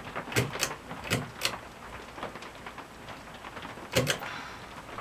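A handful of sharp, irregularly spaced clicks and knocks: four in the first second and a half, then a pair about four seconds in.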